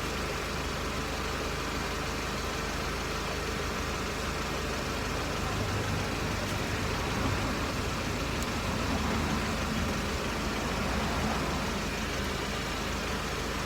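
Mercedes SLK R170 engine idling, heard from under the car close to the exhaust: a steady running sound, swelling slightly in the middle. The owner finds the exhaust a little raspy and suspects a leak, though the joint here is not leaking.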